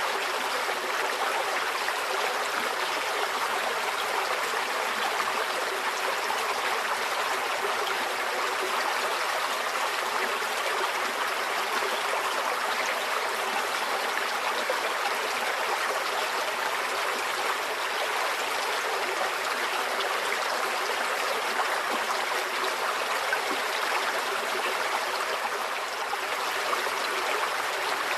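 A shallow stream flowing steadily over stones, a constant babble of running water.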